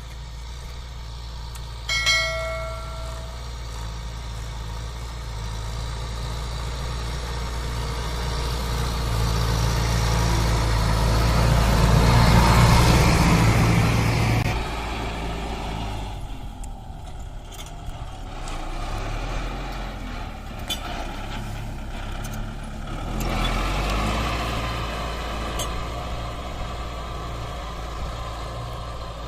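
Kubota MU 4501 tractor's diesel engine running under work, growing louder toward the middle and then dropping off abruptly about halfway through. A short horn blast sounds about two seconds in.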